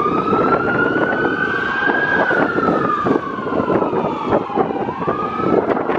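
Emergency vehicle siren on a slow wail, its pitch rising for about two seconds, falling for about three, then rising again, over steady background noise.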